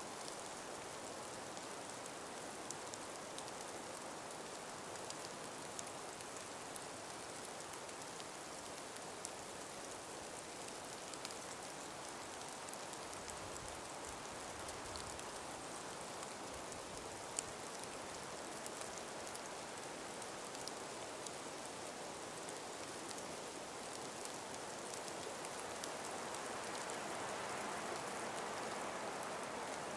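Calm breeze through ice- and snow-covered forest trees: a steady soft hiss with scattered small ticks, and one sharper tick about two-thirds of the way through. The hiss swells a little near the end.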